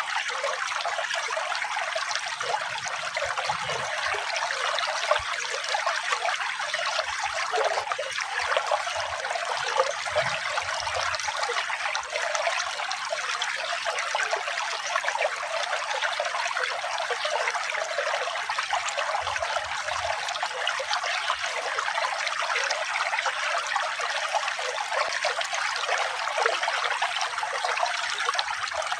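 Running water trickling steadily, an even, unbroken rush of water.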